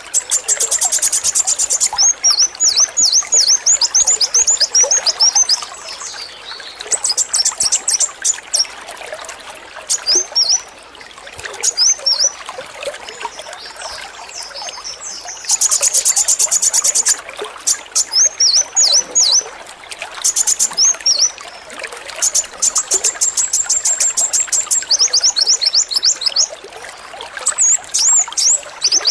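Male kolibri wulung, a sunbird, singing in repeated high bursts: rapid rattling trills alternating with strings of quick, sharp down-slurred notes, over a steady trickle of running water.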